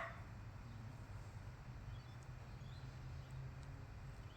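Quiet outdoor background: a steady low rumble, with two faint, short, high chirps about two seconds in.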